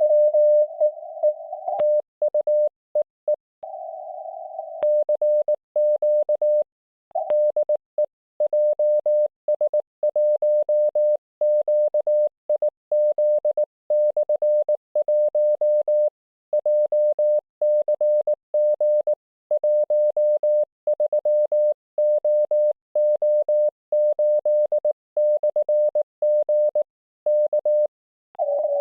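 Morse code (CW) on the 1.9 MHz amateur band heard through an IC-705 transceiver: a single steady tone keyed on and off in dots and dashes. A slightly higher, fainter tone is briefly heard a few seconds in, and there is a short pause about seven seconds in.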